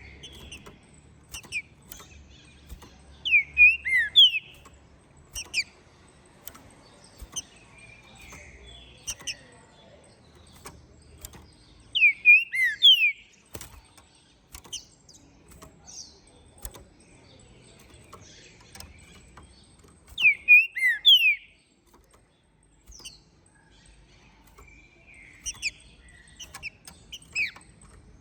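Green-winged saltator (trinca-ferro) singing: three loud, short phrases of slurred whistles, about eight seconds apart, with softer short notes and scattered sharp clicks in between.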